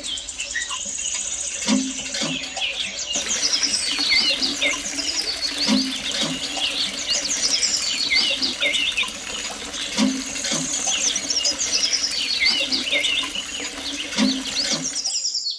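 Water running in a thin stream from a miniature hand pump's spout into a small trough, with many birds chirping throughout and a soft low thump about every four seconds.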